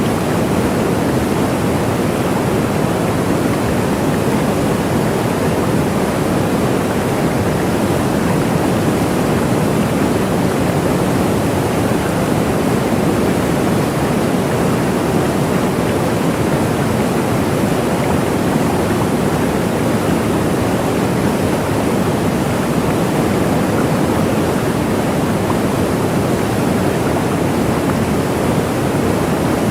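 Waterfall: a steady, even rush of falling water, unbroken and unchanging.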